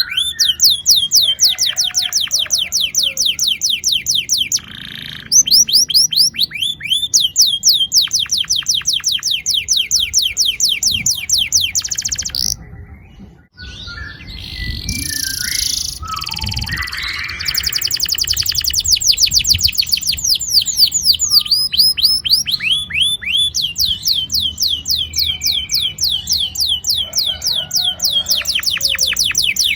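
Domestic canary singing long rolling trills: rapid runs of quickly repeated, falling high notes, broken by a short pause about halfway through before the song resumes.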